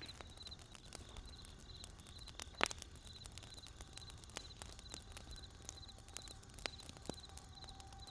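Wood fire crackling, with irregular sharp snaps and pops, the loudest about two and a half seconds in, over a low steady rumble. A high, pulsed chirping repeats two to three times a second throughout.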